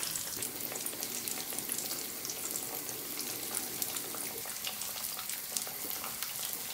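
Breadcrumbed potato kebabs frying in hot oil in a pan: a steady sizzle full of fine crackles.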